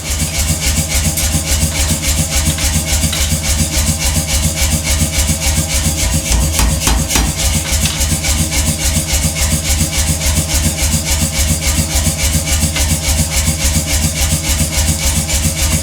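A workshop machine running with a fast, even pounding of about nine or ten strokes a second. It starts suddenly and holds steady throughout.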